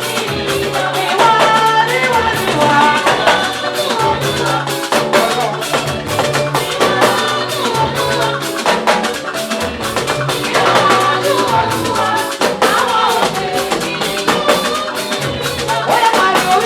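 Live gospel praise band music: drum kit and shaker keep a steady, busy beat under a moving bass line, with voices singing.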